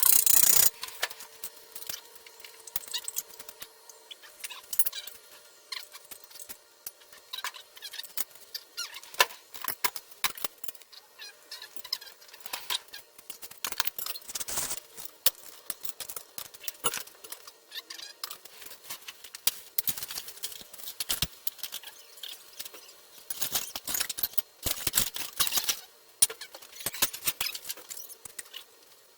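Irregular clicks, clinks and light knocks of hand tools on metal, with a few short scraping noises, from work on a seized engine.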